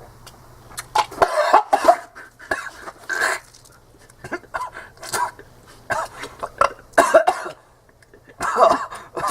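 A person coughing and retching in a string of short, irregular gags, the gag reflex set off by gulping down a foul blended drink with chunks of pickle and raw egg.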